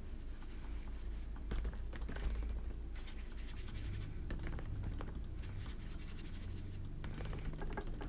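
Faint scratching and small scattered taps of a brush working wet watercolour over a paper page, over a low steady room hum.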